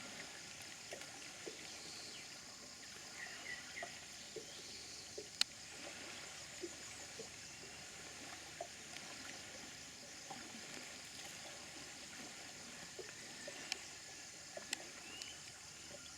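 Faint tropical rainforest ambience: a steady high insect drone with a few short bird chirps, a couple about three seconds in and one near the end, and scattered sharp clicks.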